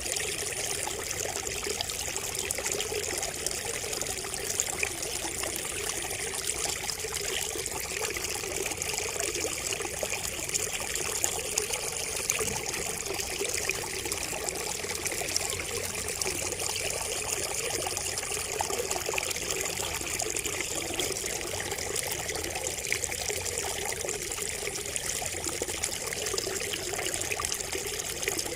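Water trickling and splashing steadily from a bamboo spout, a continuous gurgling stream.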